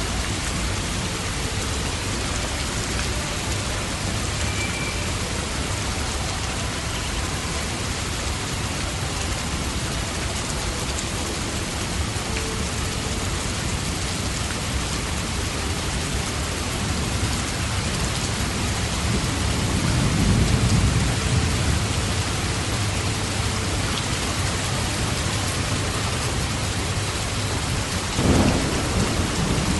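Steady rain, with a low rumble of thunder swelling and fading about two-thirds of the way through and a short, sharper thunder crack near the end.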